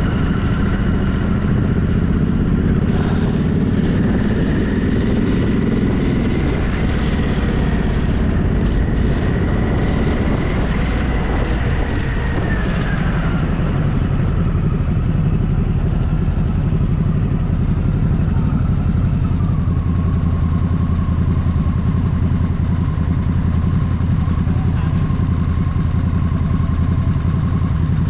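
Motorcycle engine running steadily on a ride, with a low rumble throughout. A whine in it drops in pitch about halfway through and again a little later, then holds steady.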